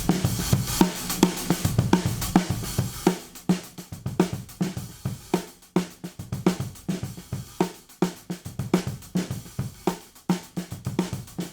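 Drum kit playing a steady beat of snare, kick and hi-hat, recorded through a modded DBX 119 compressor/expander. For about the first three seconds the hits run together with a thick cymbal wash; after that each hit dies away quickly and the sound is drier and more clipped.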